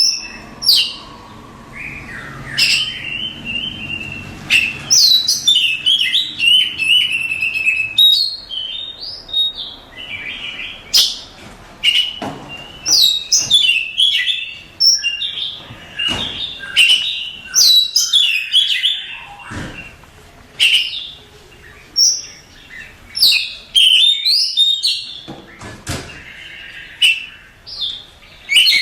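Oriental magpie-robin (kacer) singing a long, varied song of quick whistled and chattering phrases with sharp clicky notes, phrase after phrase with only brief gaps.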